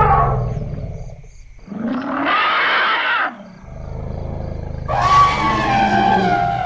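Elephant calls in succession: a call with a falling pitch trails off in the first second, a short, bright, harsh call sounds about two seconds in, then a deep low rumble starts, with a long call over it from about five seconds.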